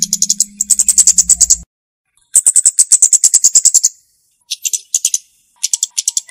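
Flowerpecker (cabe-cabean) calling in fast strings of sharp, very high ticking notes, about ten a second, in several phrases of one to one and a half seconds with short pauses between. A low steady hum sits under the first phrase.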